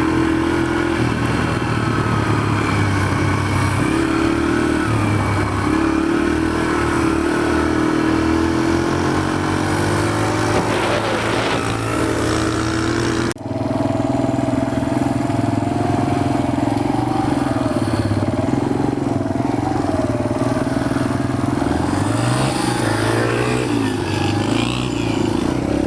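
Dirt bike engines running and revving. The sound breaks off abruptly about thirteen seconds in and picks straight up again, and the pitch rises and falls several times near the end.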